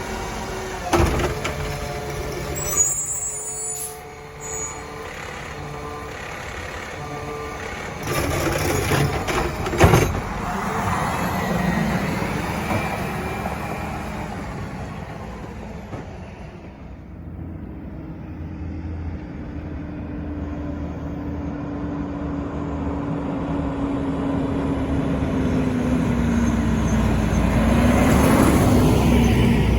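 Garbage trucks' diesel engines running as they pull in, with a few sharp air-brake hisses in the first ten seconds. One truck's engine grows steadily louder near the end as it comes close.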